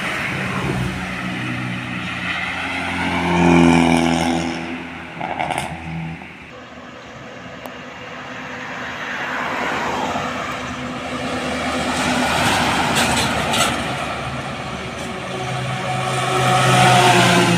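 Road vehicles passing one after another. An engine hum swells and fades about a third of the way in, tyre and road noise follows, and another engine swells near the end.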